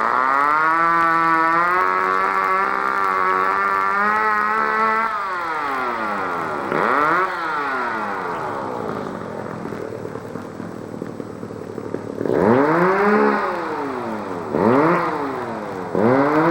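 A small engine runs at high revs for several seconds, drops and climbs back twice, then settles lower. Near the end it gives three short revs, each rising and falling in pitch.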